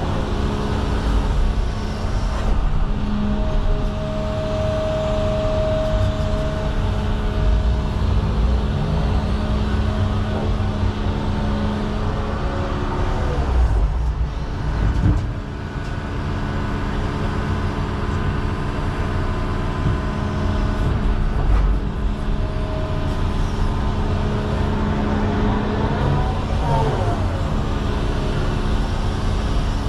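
John Deere 210 excavator's diesel engine running steadily under load while it digs and loads, with a higher whine that comes in for a few seconds about three seconds in and a brief drop in level about halfway through.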